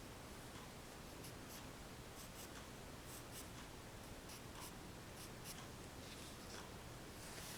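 Graphite pencil scratching on paper in short, irregular sketching strokes, with a longer stroke shortly before the end.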